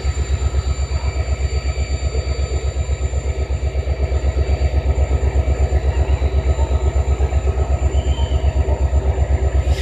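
Large diesel engine idling, most likely a locomotive's, with a steady low pulsing of about ten beats a second and a faint high whine above it.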